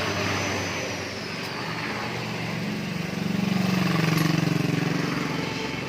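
An engine running, its low hum swelling to its loudest about three to four seconds in and easing off near the end.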